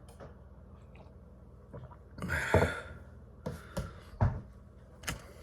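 A low steady hum, with one short breathy noise about two seconds in and a few soft clicks and knocks after it.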